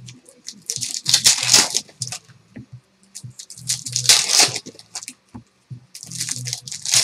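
Foil trading-card pack wrappers being torn open and crinkled by hand, in three rough bursts of about a second each with smaller crackles between.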